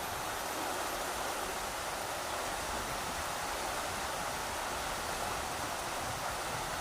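Rushing river water: a steady, unbroken rush that holds an even level throughout.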